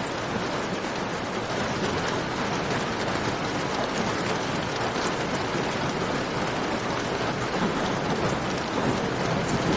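Steady, dense rainfall, with occasional sharp crackles from a campfire mixed in.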